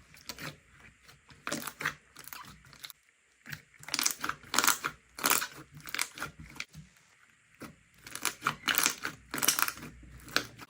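Slime being pressed and squeezed by hand, giving runs of small crackles and pops in clusters every few seconds with short pauses between.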